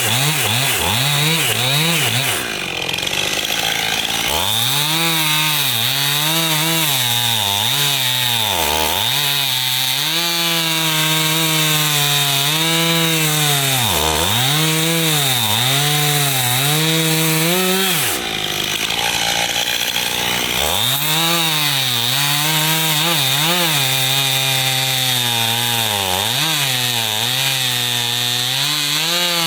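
Chainsaw cutting firewood, its engine pitch sagging again and again as the chain bogs in the cut and climbing back as it frees up. It eases off briefly about three seconds in and again around two-thirds of the way through.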